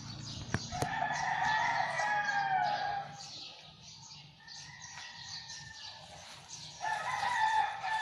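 Rooster crowing twice: one long call of about two seconds that drops in pitch at the end, and a second crow starting near the end.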